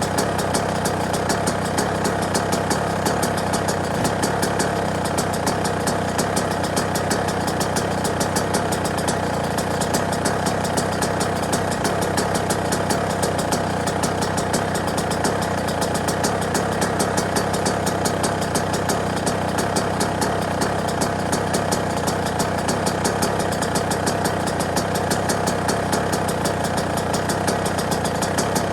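Yamaha YZ125 two-stroke single-cylinder dirt bike engine idling steadily, with a rapid, even popping from the exhaust.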